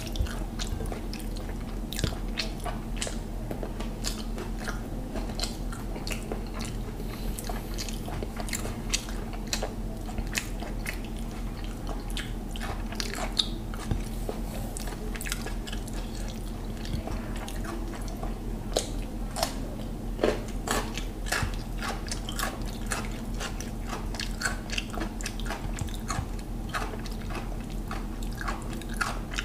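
Close-up mouth sounds of a man chewing mutton biryani: a dense run of small wet clicks and lip smacks, over a steady low hum.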